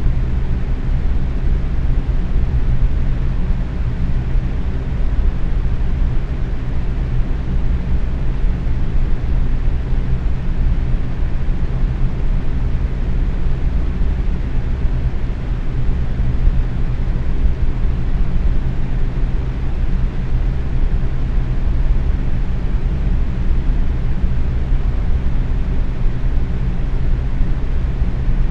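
Box fan running steadily at medium speed: an even rush of moving air over a low, constant hum from the motor and blades.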